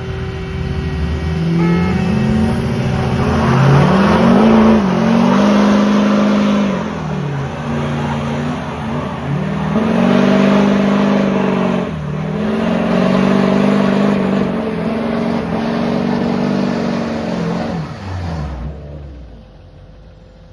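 LMM Duramax 6.6-litre V8 turbodiesel revved hard again and again over a rough hiss of spinning tires, the rear wheels spinning in two-wheel drive under a tug-of-war load and shredding tire rubber. The engine note climbs, holds high and falls back about four times, then cuts off suddenly near the end.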